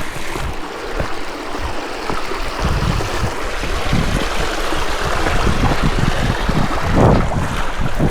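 Rushing water from a seasonal creek and waterfall, a steady hiss growing slightly louder, with wind buffeting the microphone in low rumbles and a couple of thumps near the end.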